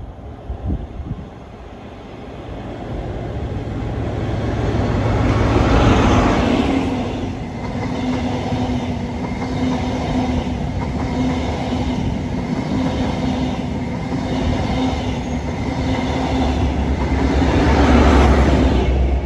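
A CrossCountry High Speed Train passing close by: the sound builds to a peak as the leading Class 43 power car goes past about six seconds in. The Mark 3 coaches follow with an even, repeating wheel rhythm over a steady hum, and the rear power car brings a second peak near the end.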